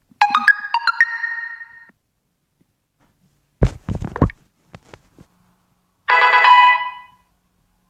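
Notification tones played through a phone's speaker: a quick run of chiming notes that steps up and holds for about a second, a few clicks midway, then a second bright chime near the end that rings for about a second.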